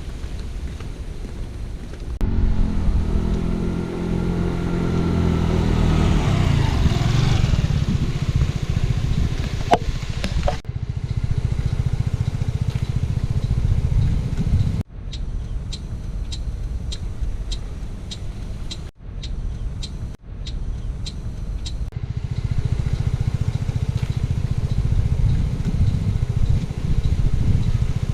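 Motor vehicle engine and road noise in several abruptly spliced segments. A few seconds in, a vehicle passes with its engine pitch falling, and in the middle a run of evenly spaced clicks, about two or three a second, sounds over the rumble.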